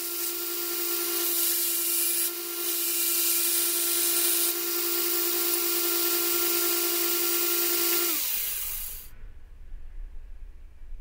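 Home-built 2x160-inch belt grinder running with a steady motor hum and a loud hiss from the belt. About eight seconds in, the motor is switched off and its hum drops in pitch as it spins down, and the hiss stops about a second later.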